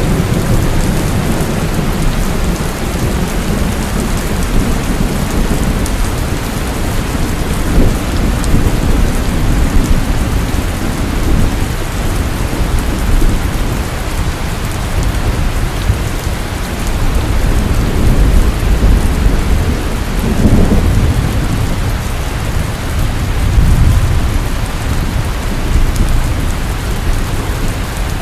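Heavy rain falling steadily with rolling thunder rumbling underneath, swelling a few times.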